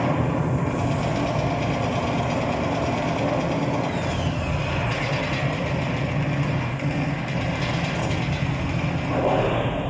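Heavy, steady mechanical rumble, like a train or heavy vehicles running, with a thin falling whistle about four seconds in.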